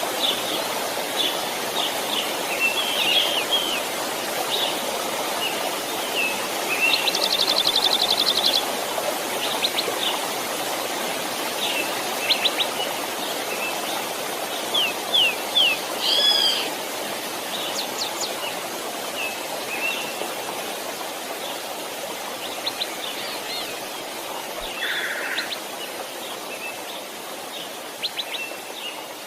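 Birds chirping and trilling over the steady rush of a flowing stream.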